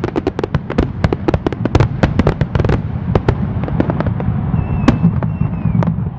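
A rapid barrage of fireworks going off: many sharp bangs and cracks a second over a steady low rumble. The bangs thin out after about three and a half seconds.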